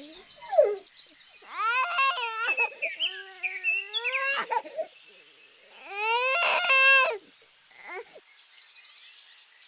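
Baby crying in a series of high, wailing cries, two of them long.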